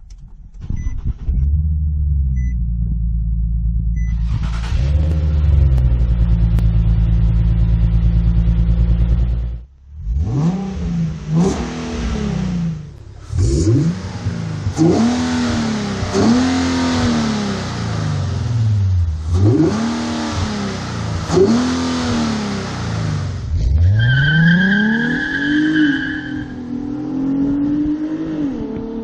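A 2014 Nissan 370Z's 3.7-litre V6 with a Magnaflow cat-back exhaust starting and idling steadily, with a few faint warning-chime beeps at first. About ten seconds in come repeated quick revs, each rising and falling sharply. Near the end it climbs in revs in one long sweep, with a high whine over it.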